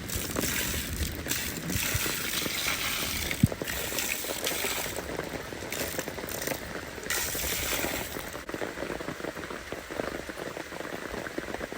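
Steady rain pattering on a tent, coming in heavier spells, with a single sharp tap about three and a half seconds in.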